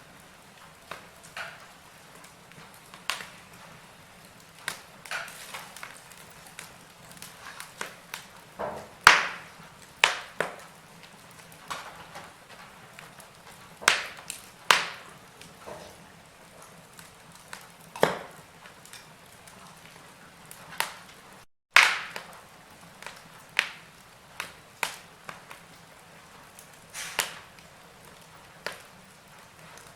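Wood fire crackling: burning logs give irregular sharp pops and snaps over a faint steady hiss. The strongest pops come about nine seconds in and just after a split-second dropout about two-thirds through.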